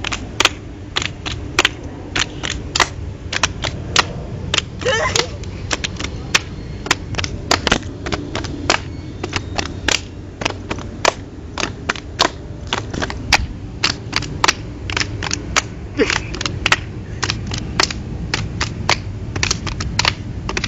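Hands clapping and slapping in a steady rhythm, about three sharp claps a second, keeping time for a rhythm game.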